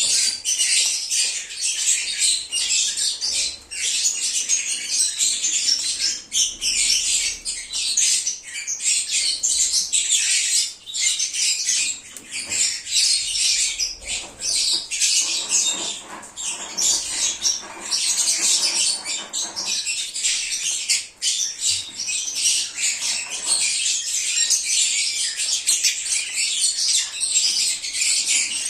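Lovebirds (Agapornis) chattering, a dense unbroken stream of high-pitched chirps and squeaks, with some lower-pitched calls joining in for a few seconds around the middle.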